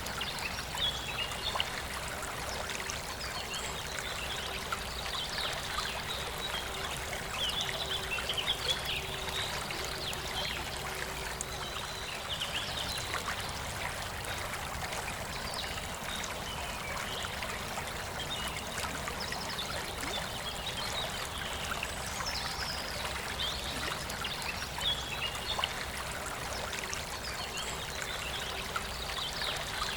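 Forest river flowing, a steady rush and trickle of water. Over it, birds sing in short high twittering phrases that come and go several times.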